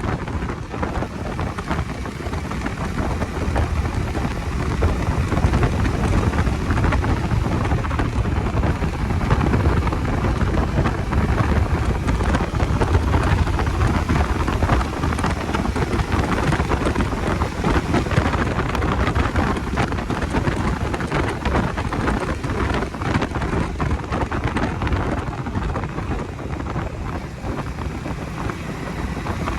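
Riding noise from a Bajaj Dominar 250 motorcycle: steady wind rush and buffeting on the microphone over road and engine noise, with a heavy low rumble.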